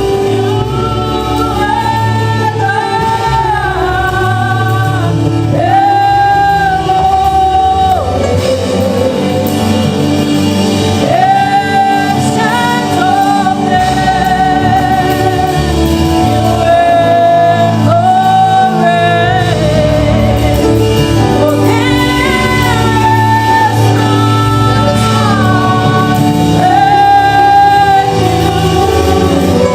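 Gospel song: singing with held, wavering notes over steady instrumental accompaniment.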